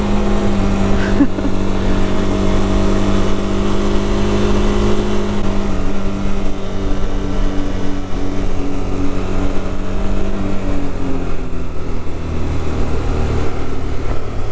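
KTM 390 Adventure's single-cylinder engine running steadily as the motorcycle is ridden, with a low rumble under the engine note. About ten seconds in, the engine note drops a little in pitch.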